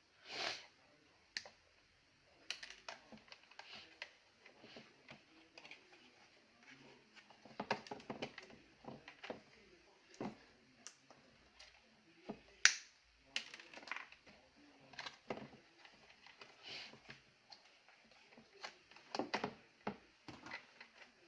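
Hands handling the plastic parts of a vacuum cleaner during a motor replacement: scattered clicks, taps and light rattles at uneven intervals, the sharpest click a little past halfway.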